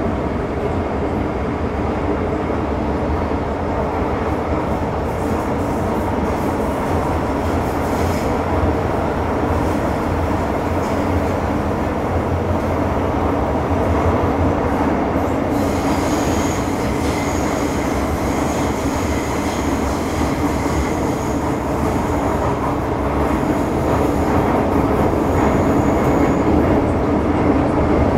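Metro Cammell M-Train EMU (MTR CM-Stock) running at speed, heard from inside the car as a steady rumble of wheels and motors. From about halfway through, a high wheel squeal comes and goes in short pieces.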